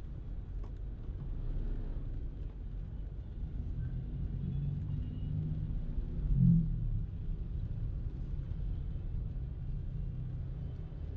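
Steady low rumble of a car being driven, from its engine and tyres on the road, with a brief louder swell about six and a half seconds in.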